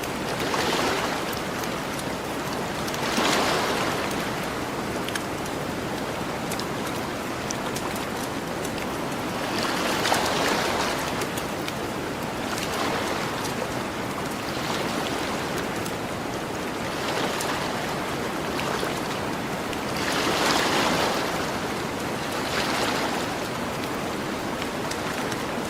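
Gentle ocean waves washing onto a beach, the surf swelling and fading every few seconds over a steady hiss, with small sharp crackles of a campfire scattered through.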